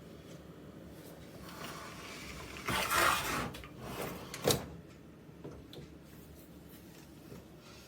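A short sliding scrape, then a single sharp click about a second later, over a low steady hum.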